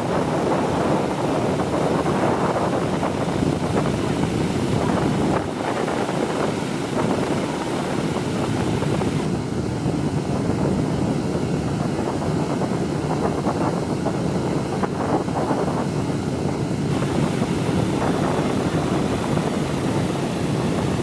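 Radial piston engines of a four-engine WWII bomber running steadily, with wind buffeting the microphone.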